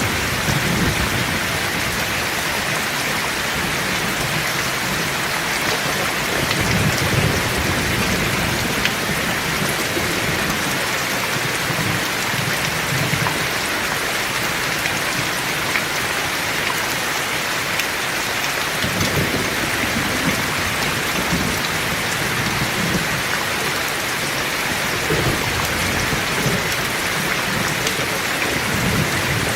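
Heavy rain falling steadily, with low rolls of distant thunder rumbling several times, around 7 s, 12 s, 19 s and 25–28 s.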